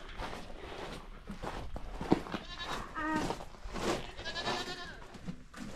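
Goats bleating, two wavering calls about three seconds in and again near four and a half seconds, as they are called in to be fed their grain.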